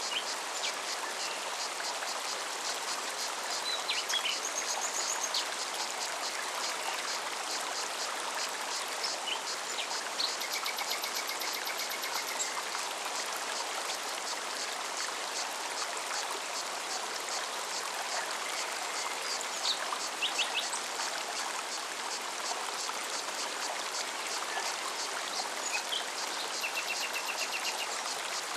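Forest mountain stream running steadily, with a cicada's fast, even pulsing buzz throughout. Birds give short chirps and trills several times.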